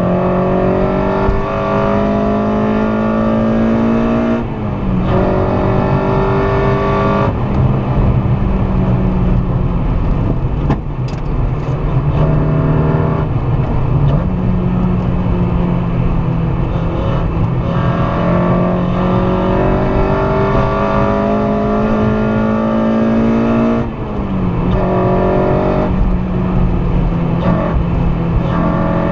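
Honda Civic Si's swapped-in K24A2 2.4-litre four-cylinder engine pulling under load. Its pitch climbs slowly, then drops sharply at a gear change about four and a half seconds in and again near the end, over steady road rumble.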